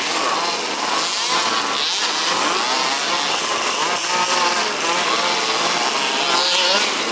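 Several 1/5-scale RC buggies' small two-stroke petrol engines racing together, their overlapping pitches rising and falling as they rev up and back off.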